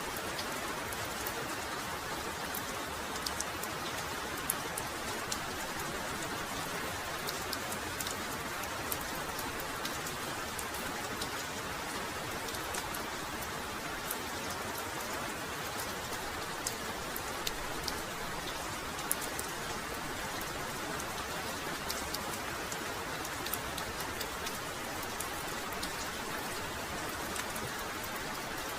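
Heavy rain falling steadily, an even hiss with many sharp individual drop hits scattered through it.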